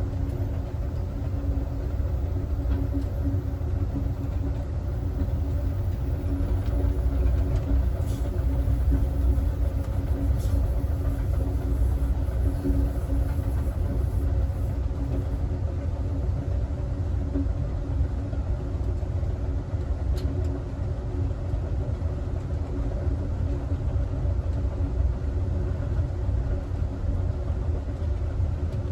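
Amtrak Southwest Chief passenger car rolling along the track: a steady low rumble with a faint steady hum over it and a few faint ticks.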